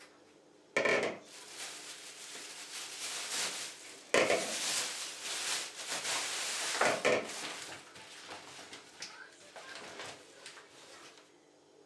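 Dishes and cutlery being handled and clattering, with three sharp clinks about a second, four seconds and seven seconds in, and a scraping, hissing noise between them.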